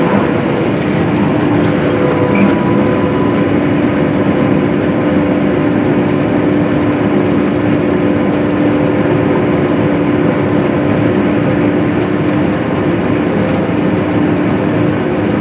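Case IH swather running steadily while cutting hay: a constant engine and machinery drone with a few even hums, without let-up.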